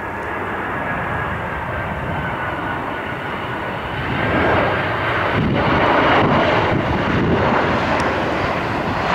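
Jet airliner coming in to land, a steady rushing engine noise with a faint whine that swells louder about four seconds in as the aircraft passes close by.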